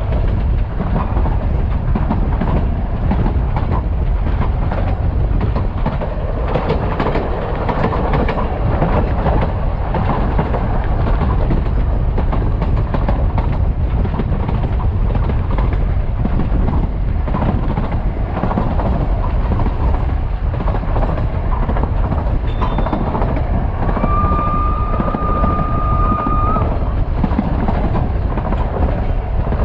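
Narrow-gauge steam train running along the line, heard from aboard: a steady rumble of wheels on the rails with light clickety-clack. Late on, a steam whistle blows one long steady note.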